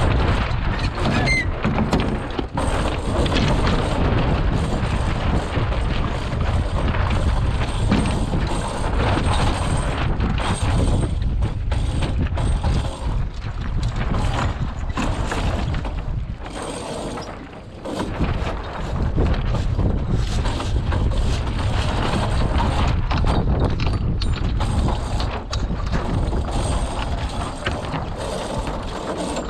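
Strong wind buffeting the microphone, with irregular knocks and rattles throughout and a brief lull about two-thirds of the way in.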